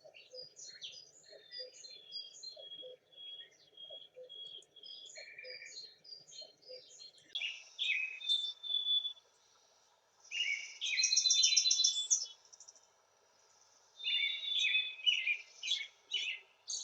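Wild songbirds chirping and singing, many short high notes overlapping. About seven seconds in the recording changes: a steady background hiss comes in, with three loud bursts of song a couple of seconds each.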